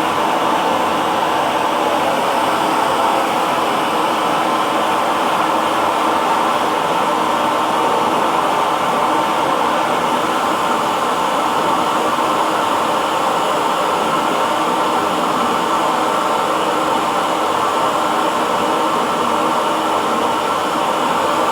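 Handheld hair dryer running steadily: an even rush of air with a constant motor hum and no change in speed.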